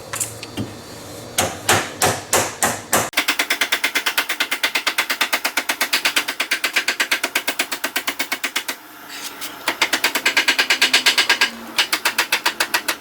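Hand ratchet wrench clicking as it is worked: a few separate clicks, then a fast, even run of clicks lasting about five seconds, a short pause, and another fast run.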